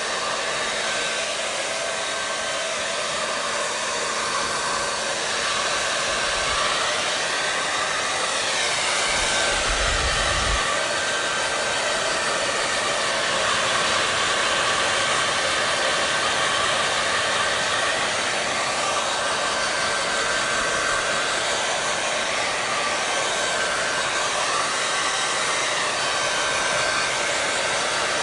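Hair dryer blowing steadily: a constant hiss of rushing air with a faint whine from its fan motor. A brief low bump about ten seconds in.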